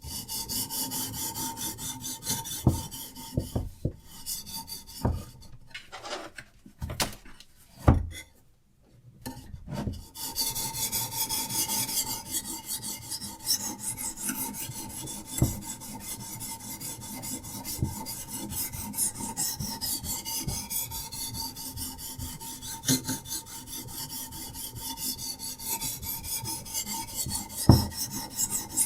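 A diamond sharpening stone on a Hapstone RS guided sharpener rasps back and forth along a knife blade in steady strokes, with occasional light knocks. The stroking pauses briefly about eight to ten seconds in.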